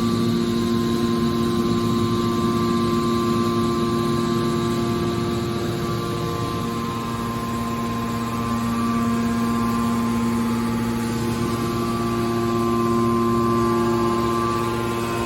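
Hydraulic metal baler's motor and pump unit running with a steady hum, a few fixed tones held throughout and shifting slightly about six seconds in.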